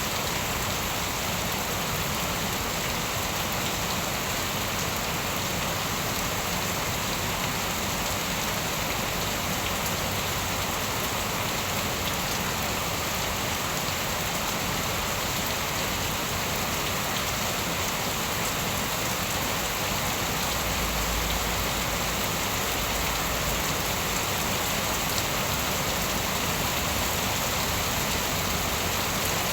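Steady heavy rain falling and pattering on surfaces, an even unbroken hiss, with a brief low rumble about two-thirds of the way through.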